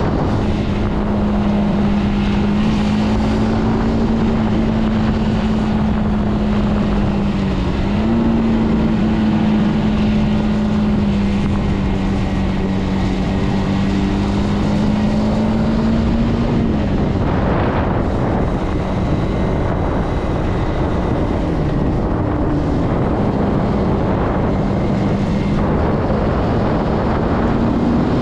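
Zontes C125 motorcycle's 125 cc single-cylinder engine running at a steady cruising pitch under wind noise on the microphone. The engine note dips briefly about eight seconds in, falls away around seventeen seconds in, then picks up again and rises near the end.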